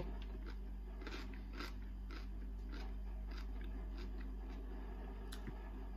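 A person chewing a mouthful of crisp Chinese cucumber with the mouth closed: soft wet crunches, about two a second.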